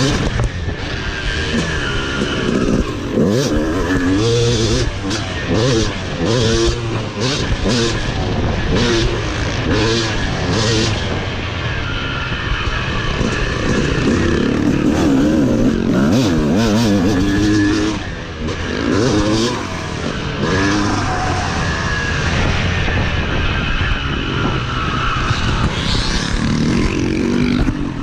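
Dirt bike engine carried on the bike around a motocross track, its revs repeatedly climbing and dropping as the rider throttles on and off, with rushing wind mixed in.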